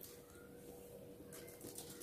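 Faint mouth sounds of eating by hand: chewing and lip smacks, with a few soft clicks near the end, over a faint steady hum.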